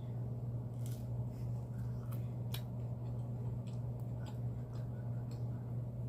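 A steady low hum with faint, irregularly spaced small clicks over it, about one or two a second.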